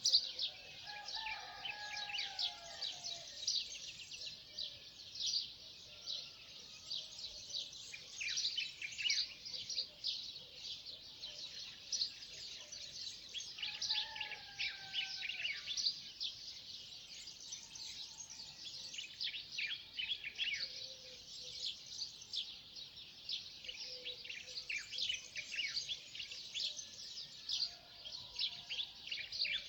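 Dawn chorus of many small birds chirping and twittering without pause. Two longer, lower falling calls from another bird come about a second in and again around fourteen seconds in.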